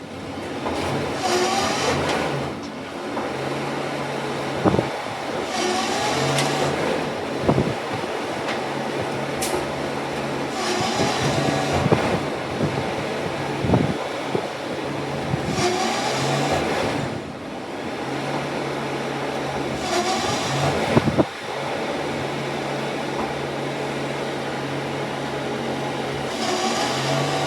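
Garbage truck engine running steadily, with bursts of hissing every few seconds and several sharp clunks in between.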